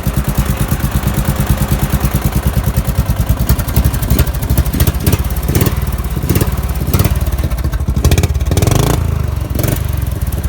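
Modified Briggs & Stratton 12.5 hp single-cylinder engine on a Murray riding mower running through a straight pipe, a fast, steady popping exhaust beat. The revs swell briefly near the end.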